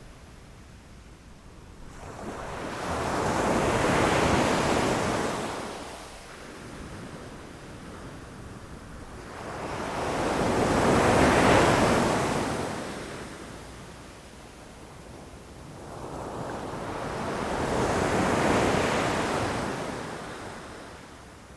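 Ocean waves crashing against rocks: three slow surges of rushing surf, each building for a few seconds and washing back down, about seven seconds apart. The middle one, around eleven seconds in, is the loudest.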